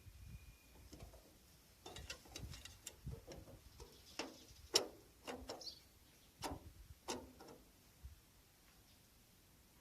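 Hand-tool work on car body panels: about a dozen irregular light knocks and clicks, the loudest about five seconds in, then quiet.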